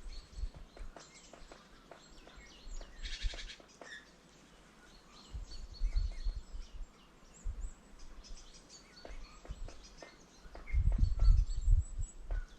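Small birds at a winter feeder, chirping and calling now and then, with one harsher call about three seconds in. Scattered light clicks and taps run through it, and heavy low thuds come near the end.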